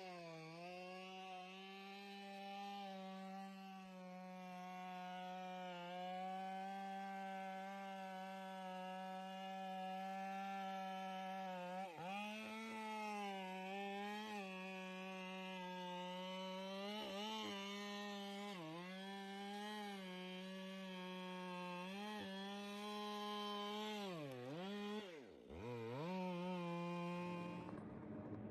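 Two-stroke chainsaw running at high revs while cutting, its engine pitch dipping briefly several times as the chain bogs under load. Near the end it drops steeply twice and recovers, then a rushing noise takes over just before the end.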